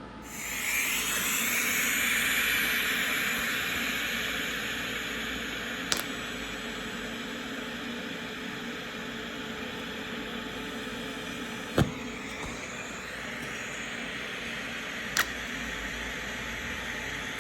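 Electric arc welding: the arc strikes just after the start and burns steadily with a hissing noise, with three sharp clicks along the way.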